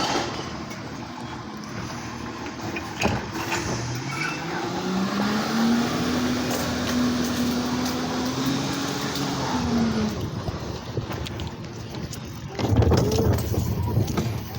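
Recycling truck's engine revs up about four seconds in, holds a steady higher pitch for roughly four seconds, then drops back near ten seconds, with a few sharp knocks and a louder burst of noise near the end.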